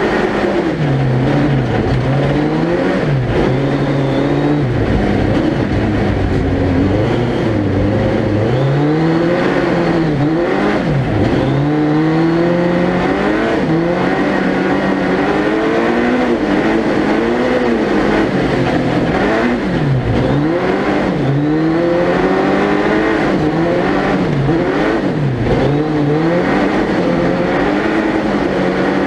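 Suzuki Hayabusa 1300cc inline-four motorcycle engine in a four-wheel-drive ice-racing prototype, heard onboard and revving up and down again and again as the throttle is opened and lifted through the corners.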